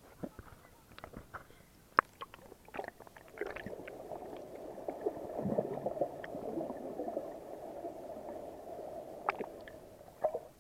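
Sea water gurgling and washing along the shore for several seconds, after a few sharp clicks.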